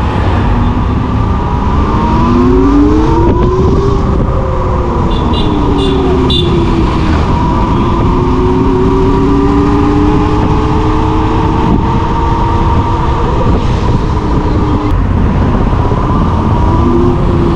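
Yatri electric motorcycle's motor whining while riding, its pitch rising as it speeds up in the first few seconds, then falling and holding steady, over a heavy low rumble.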